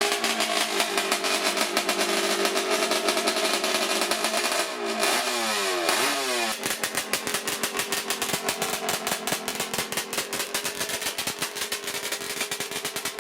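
Two-stroke motorcycle engine running with a rapid, even exhaust beat, revved up and back down a few times about five to six seconds in, then settling back to a steady idle.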